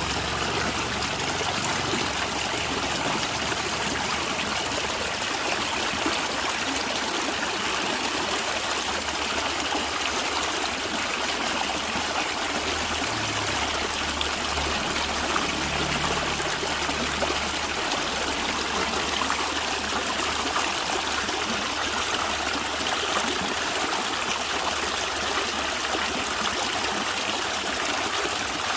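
Steady, continuous gurgling of a natural stream running over rocks.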